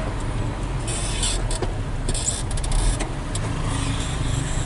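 Hino 500 FM320TI truck's diesel engine running steadily under way, heard from inside the cab as a low hum, with short bursts of high rattling and clicking about a second in and again around two to three seconds in.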